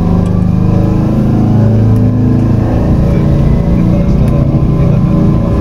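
Tokyu Setagaya Line 300 series tram car running along the track, heard from inside the car: a steady low hum with continuous rolling rumble.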